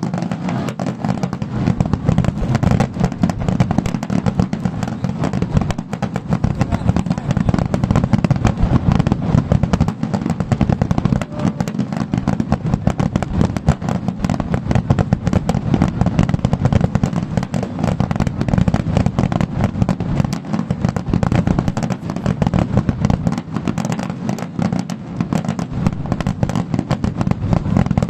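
Fireworks barrage, a star mine firing shells in quick succession so that the bursts run together into a continuous rumble of booms and crackle.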